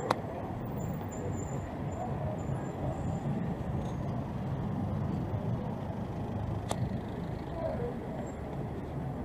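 City street traffic: the steady engine rumble of passing vehicles, with faint voices in the background and two sharp clicks, one at the start and one about two-thirds of the way through.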